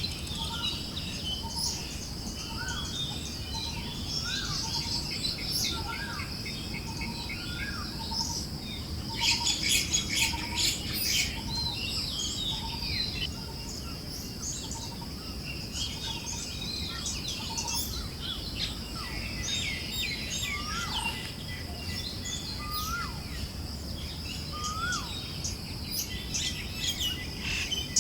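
Forest birds chirping and calling, with a short note repeated about twice a second through the first half, scattered rising whistles, and a denser burst of chirping about ten seconds in. A steady high hiss and a low rumble of wind run underneath.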